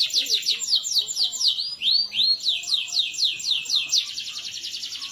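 Domestic canary singing: a fast run of repeated downward-sweeping whistled notes, with a couple of arched notes about two seconds in, then a quicker rolling trill near the end.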